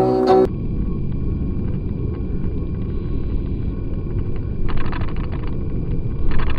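Car cabin noise picked up by a dashcam while driving: a steady low road and engine rumble, with stretches of faint, rapid ticking about five seconds in and again near the end.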